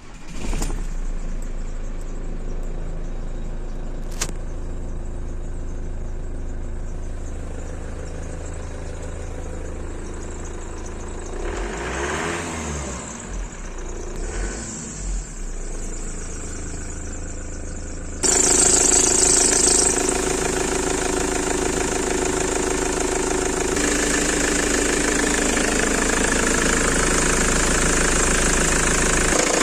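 Ford Transit 2.4 diesel engine running, with its accessory drive belt squealing even though the belt and pulleys are only two months old. A little past halfway the sound suddenly gets much louder and shriller, with the high squeal tones standing out, and it stays that way.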